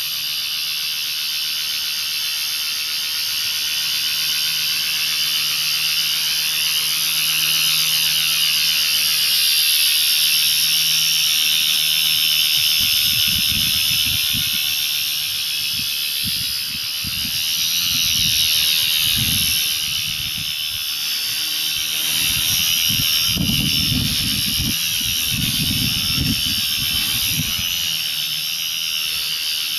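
Brushless electric motor and coaxial rotors of a small RC helicopter whining steadily in flight, the pitch bending slowly up and down. From about halfway, irregular low gusty buffeting on the microphone joins it.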